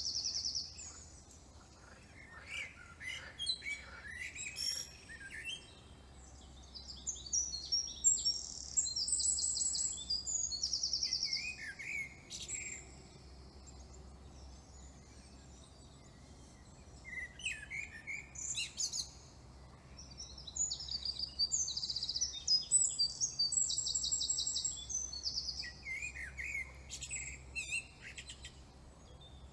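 Songbirds singing in bouts of rapid, high trills and chirps, with short pauses between the phrases.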